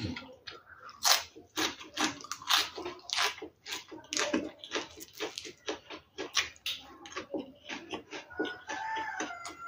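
Close-up chewing and lip-smacking of a person eating rice and fried fish by hand: a quick run of short wet smacks and clicks. A brief high whistling tone comes near the end.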